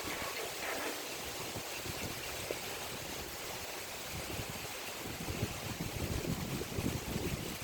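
Heavy rain pouring steadily in a strong windstorm, with gusts of wind buffeting harder in the second half.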